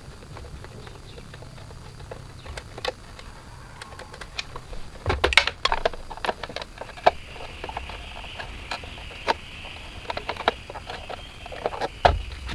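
Scattered sharp clicks and knocks of small hard objects being handled, with a quick cluster about five seconds in and a faint steady hiss through the second half.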